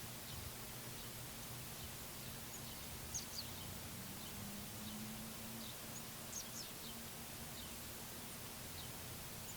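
Scattered short, high chirps of small songbirds, a couple of quick pairs about three seconds in and again past six seconds, over a steady low hum and an even outdoor hiss.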